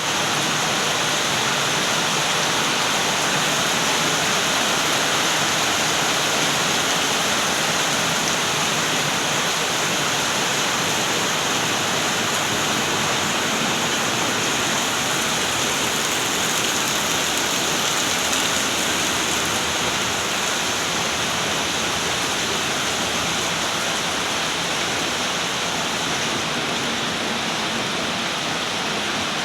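A steady, even rush of water with no breaks or distinct drops.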